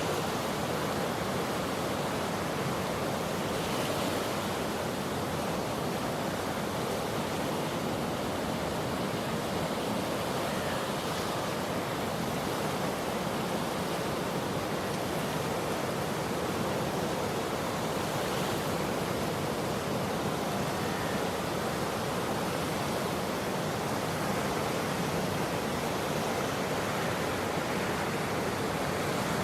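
Fast floodwater of a swollen river rushing steadily, a continuous even noise with no breaks.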